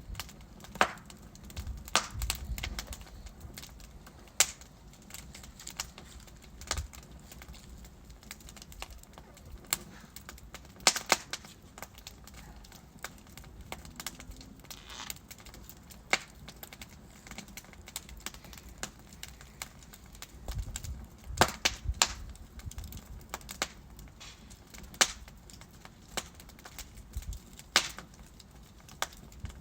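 Wood fire in a fireplace, burning logs crackling and popping at irregular intervals over a soft steady hiss, with clusters of louder pops about two seconds in and again about twenty-one seconds in.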